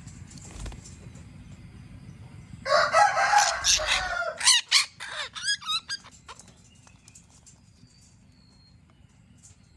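A bird calls loudly: a harsh call of about a second and a half, then a quick run of several shorter calls, after which it falls quiet.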